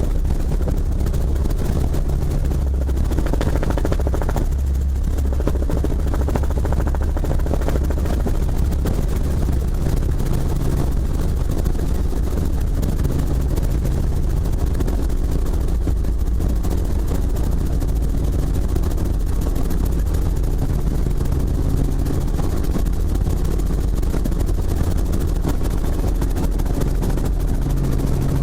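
Helicopter rotor and engine running steadily: a loud, constant low drone with a few steady tones.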